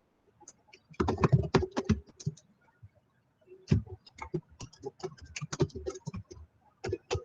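Typing on a computer keyboard: quick runs of key clicks in two spells, the first starting about a second in and the second running from about halfway to near the end.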